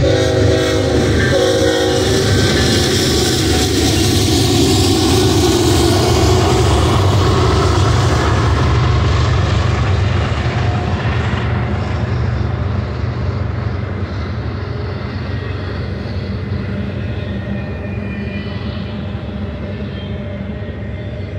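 BNSF freight train's diesel locomotives passing with a low, steady engine drone, the air horn sounding briefly in the first two seconds. From about halfway the double-stack container cars roll by and the sound slowly fades.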